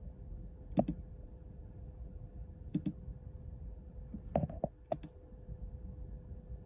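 Sharp mechanical clicks, about one every two seconds with a quick pair near the end, over a faint steady hum and a steady tone.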